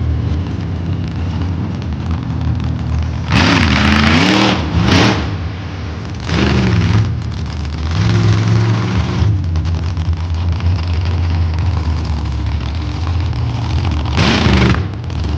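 Monster truck engine running loud, revving hard in repeated bursts whose pitch rises and falls, with a steady low drone between them.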